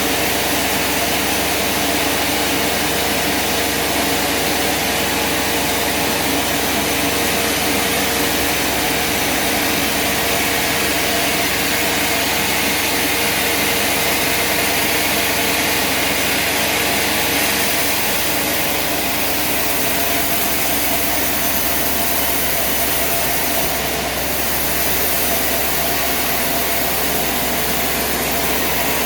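An engine running steadily at an even pitch, with no let-up.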